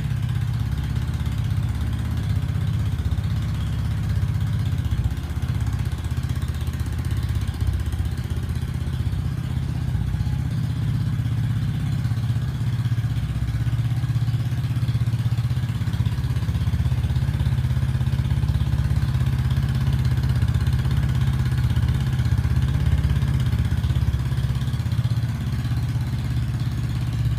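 Yamaha Cygnus X FI scooter's 125 cc single-cylinder four-stroke engine idling steadily through an aftermarket custom muffler, a deep even exhaust note.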